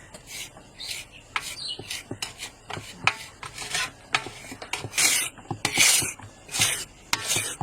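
Repeated rasping, scraping strokes worked back and forth on a hard surface, lighter and uneven at first, then louder and more regular, about one to two strokes a second, in the second half.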